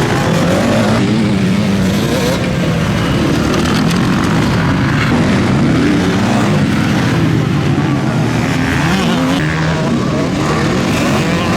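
Several motocross bikes racing, their engines revving up and down, with the pitches of different bikes rising and falling over one another.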